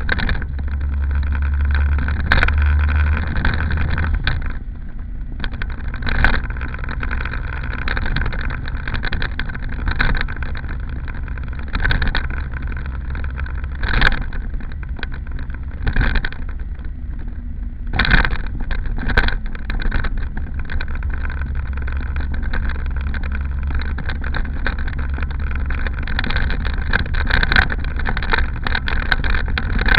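A small car running, with a steady low rumble and brief louder swells every couple of seconds.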